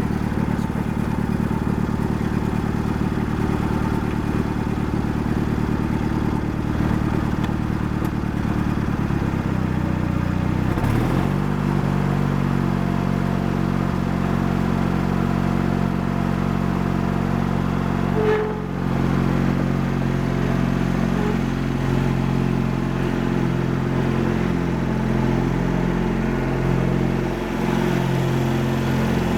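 Craftsman GT6000 garden tractor engine running while it warms up after a cold start. About ten seconds in the engine speed rises and then holds steady, with a brief dip a little past the middle.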